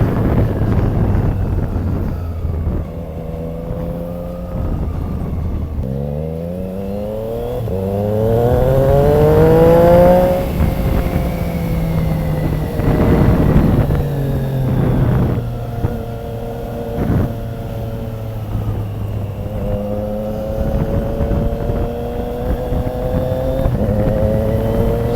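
Triumph Trident 660's three-cylinder engine on the move: the revs climb steadily for about four seconds a quarter of the way in, then drop back and hold a steady cruise, with a few more shorter rises near the end. It is heard from inside the rider's helmet, with road and wind noise under it.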